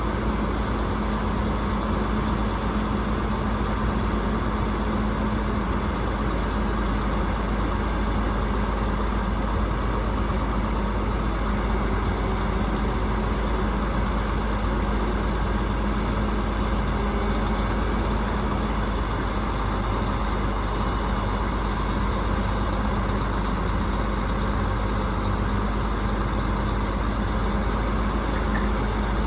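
Rooftop HVAC unit running steadily, a continuous mechanical drone with a steady low hum.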